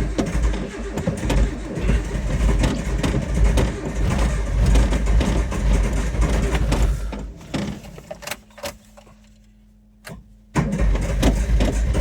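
Suzuki Samurai engine cold-starting in deep frost (about −26°), running rough and uneven, then dying away about eight seconds in and, after a quiet gap of about two seconds with a faint steady hum, firing again abruptly near the end.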